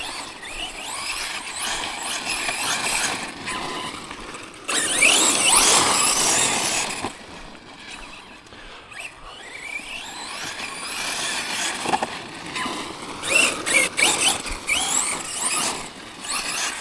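Electric RC monster truck's brushless motor and drivetrain whining, rising and falling in pitch with the throttle. It is loudest in spells about five seconds and about thirteen seconds in, with a few sharp clicks.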